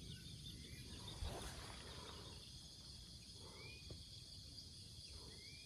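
Faint, steady high-pitched trilling of insects in the background. A few short high chirps come through it, and there is a soft knock about a second in.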